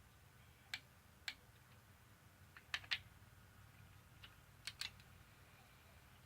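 A few sharp, irregular clicks and taps of hand tools at work on the engine's head bolts, over near-quiet room tone.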